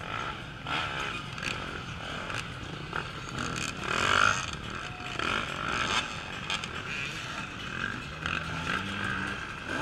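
Off-road race motorcycles running on the course, with an engine revving up later on and scattered knocks and clatter.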